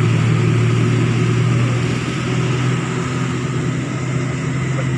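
Truck engine running steadily at a low, even pitch, settling a little quieter about two seconds in.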